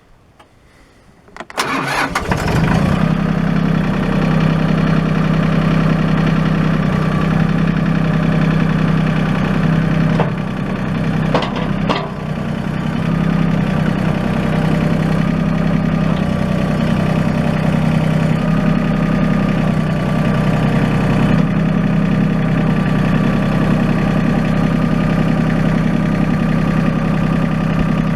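Mahindra 1626 HST compact tractor's diesel engine cranking and catching about two seconds in, then running steadily. Its level dips briefly near the middle, with a few clicks, before it settles back to a steady run.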